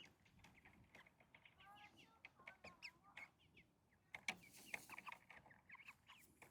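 A flock of meat chickens making many short, faint calls and chirps, with a sharp click about four seconds in.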